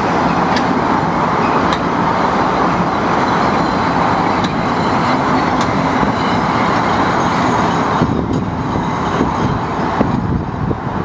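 A Metro-North commuter train passing: a steady rumble of wheels on the rails, with a few faint clicks. The higher hiss thins out about eight seconds in.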